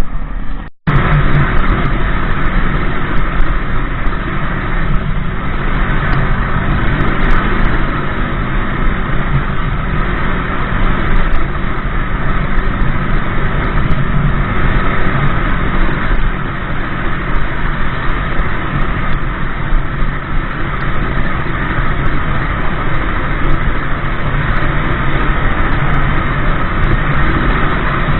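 A motorbike running steadily along the road, with engine and road noise. The sound drops out for a split second about a second in.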